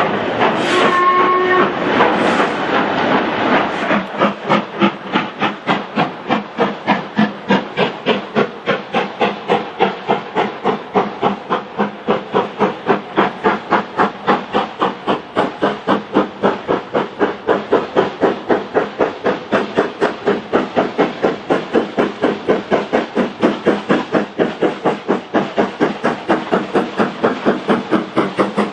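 LMS Stanier Black Five steam locomotive 45212 gives a short whistle about a second in. It then works under steam, its exhaust chuffing in a steady, even beat of about two and a half beats a second.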